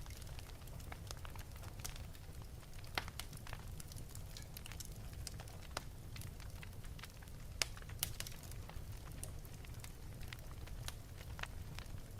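Wood fire burning in an open fireplace: a steady low rumble of flames with irregular sharp crackles and pops, a few louder ones about three seconds in and near the middle.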